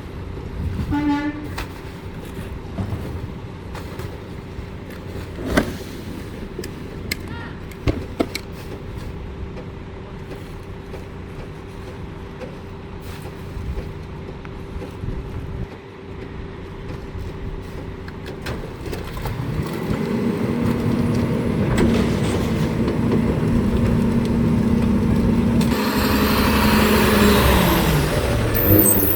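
Rear-loader garbage truck running with a steady whine and a few sharp knocks. About twenty seconds in, the engine revs up under load and stays up as the packer runs, and a loud hiss comes near the end.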